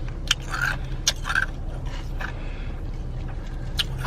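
Short scrapes and clicks, about six in four seconds, from a drink cup of lemonade with crushed ice being handled, over a steady low hum.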